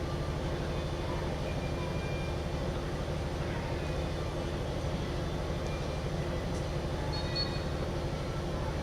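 A steady low mechanical hum with a wide background noise, unchanging throughout, and a couple of faint short high squeaks about seven seconds in.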